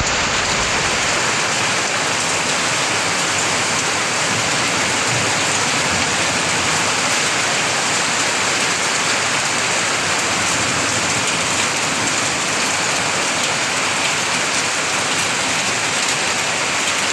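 Heavy downpour of rain mixed with hail falling on surfaces: a steady, dense hiss.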